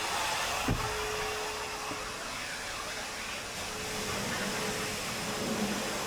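Hand car wash equipment running steadily: a continuous whooshing hiss with a constant hum. There is a single sharp knock just under a second in.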